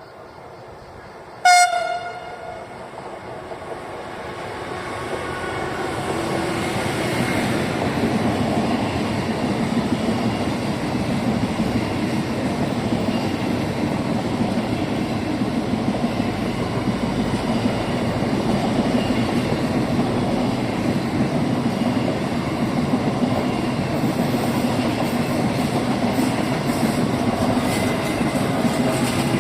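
A passing train sounds one short horn blast about a second and a half in. The sound of the train running past then builds over the next several seconds and holds loud and steady.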